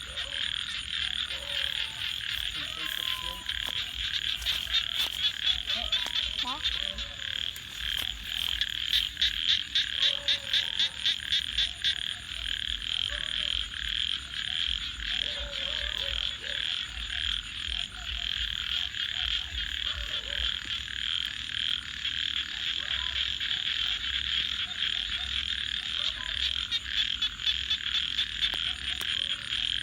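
A dense chorus of frogs calling without pause, with runs of louder, fast pulsed croaking about 4 to 6 seconds in and again about 9 to 12 seconds in.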